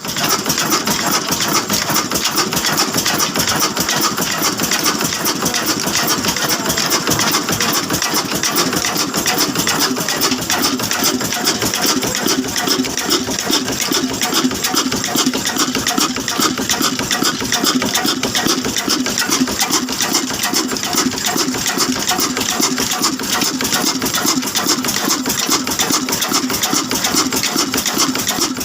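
Old Ruston stationary diesel engine running steadily with a fast, even beat.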